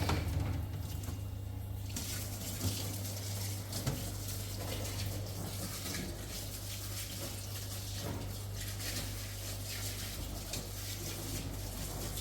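Steady rush of running water over a low steady hum, the water noise coming in about two seconds in.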